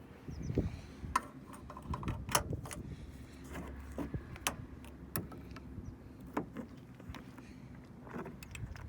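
Scattered light clicks and knocks of something being handled, a dozen or so spread irregularly over a faint steady background.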